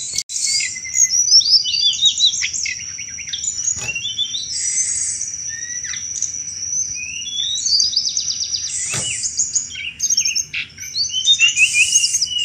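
Tledekan gunung (blood-breasted flowerpecker) calling busily in a rapid, high-pitched chattering series of chirps and short trills, the 'cetrekan' call used to lure other birds. A steady high whine runs underneath, and a couple of sharp clicks come in about four and nine seconds in.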